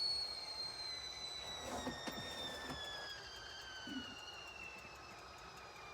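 Stovetop whistling kettle winding down: one high whistle sliding slowly down in pitch and fading. A couple of faint knocks are heard along with it.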